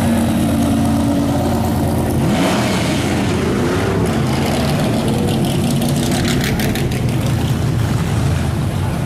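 Car engines running as cars drive past, with one engine's pitch rising and falling about two and a half seconds in.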